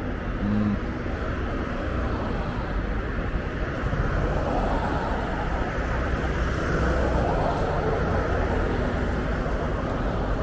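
Motorbike engine and traffic noise while riding on a road, a steady low rumble.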